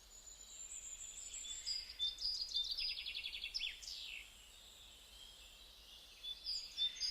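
Bird calls played as the partridge's voice: thin high-pitched chirps, a fast run of evenly spaced notes and a quick falling note. After a pause of about two seconds, more chirps begin near the end.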